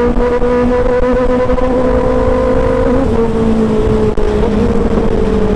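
Kawasaki Ninja sportbike's inline-four engine with an aftermarket exhaust, loud and held at a steady high-revving cruise while riding. The note sinks slowly over the stretch, with brief blips about three and four seconds in.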